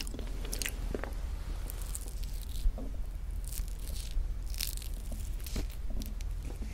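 Close-miked chewing and biting: a scatter of soft, short crunches and mouth clicks over a steady low hum.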